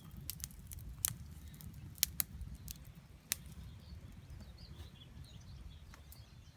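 Wood campfire crackling, with sharp pops every second or so over a low steady rumble; faint bird chirps come in during the second half.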